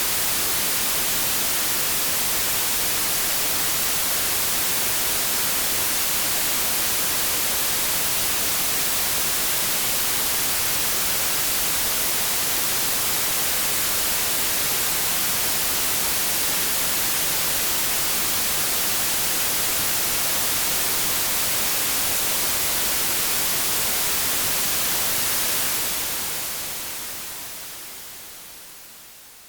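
Synthetic white noise, a steady even hiss with no other sound. It fades out smoothly over the last four seconds.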